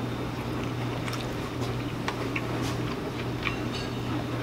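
A man chewing a mouthful of food, soft wet mouth clicks and squishes, over a steady low hum.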